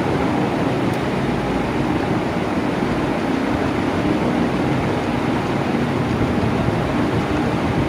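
Electric fan running at a steady speed: an even rush of moving air with a low motor hum underneath.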